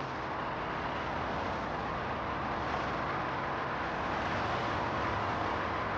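Steady background ambience with no speech: an even, unbroken hiss and hum like distant urban traffic.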